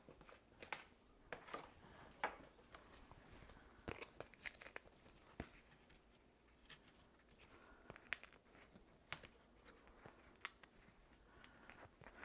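Faint crinkling and small clicks of foam adhesive dimensionals being peeled from their backing sheet, with light taps of paper being handled.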